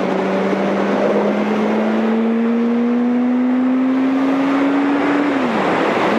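Yamaha R1's inline-four engine under way, its note climbing slowly as the bike accelerates, then dropping near the end and picking up again at a lower pitch. Wind rushes over the microphone throughout.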